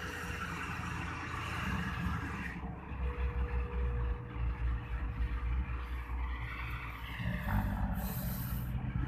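Heavy diesel machinery at work, an excavator and a dump truck: a low engine rumble that changes about a third of the way in and again near the end. A short hiss comes near the end.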